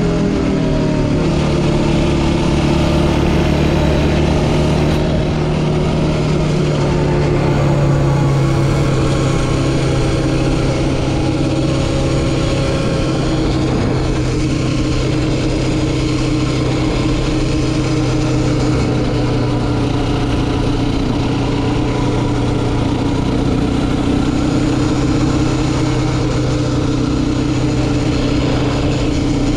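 Yamaha Raptor 700R quad's single-cylinder four-stroke engine. Its pitch drops off in the first second or so as it comes off the throttle, then it runs at a steady, even speed.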